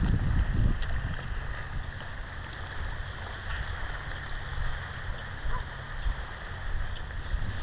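Wind buffeting the microphone, a gusty low rumble over steady outdoor hiss, strongest in the first second.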